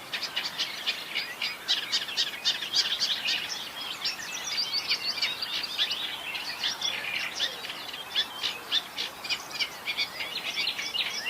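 Great reed warbler singing: a fast, unbroken chatter of short repeated notes.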